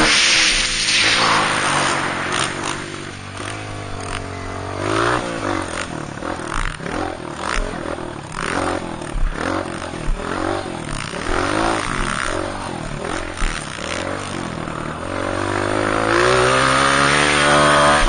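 Dirt bike engines revving on a motocross track, the pitch rising and falling as the bikes accelerate and shift. Loudest near the start, it eases off through the middle with scattered short clatter, then builds again near the end as a bike comes closer.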